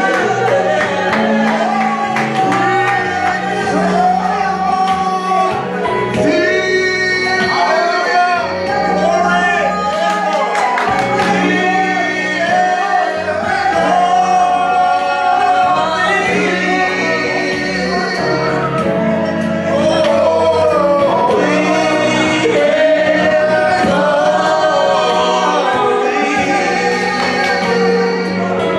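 Gospel worship song: voices singing over sustained instrumental accompaniment.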